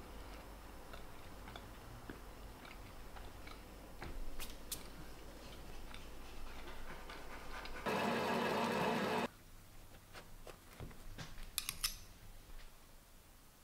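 Quiet chewing of a bite of cinnamon bun over a low hum. About eight seconds in comes a loud, steady sound with a tone, lasting about a second and a half, then a metal spoon clinks and scrapes as it scoops into a bun.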